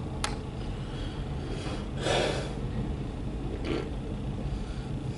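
Steady low rumble of a CSX loaded autorack freight train. A click comes just after the start, and two short breathy whooshes are heard, the louder one about two seconds in and a fainter one a little later.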